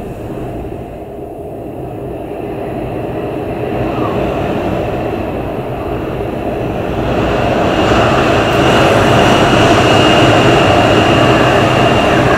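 Storm-force winter wind gusting, a low rushing noise that swells louder about seven seconds in, with a faint high whistle over it.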